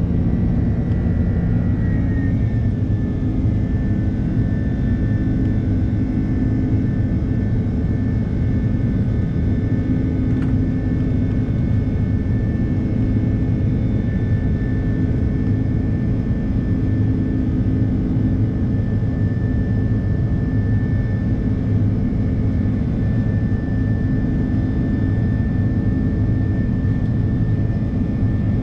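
Airbus A330-300 jet engines heard from inside the passenger cabin: a loud, steady rumble with a thin whine whose pitch steps slightly lower about two seconds in, then holds.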